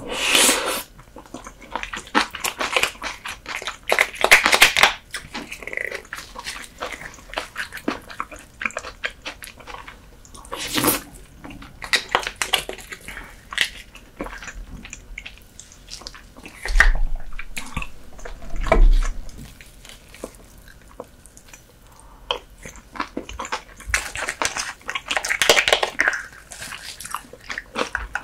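Close-miked eating sounds of soy-sauce-marinated horsehair crab: wet chewing, smacking and small crunches, in irregular clusters of clicks with several louder bursts.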